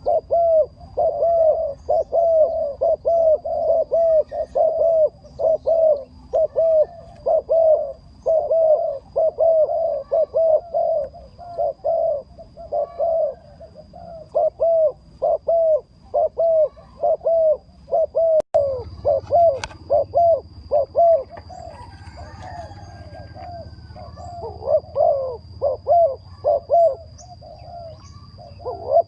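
A bird calling over and over in short arched notes, about two or three a second, with no let-up.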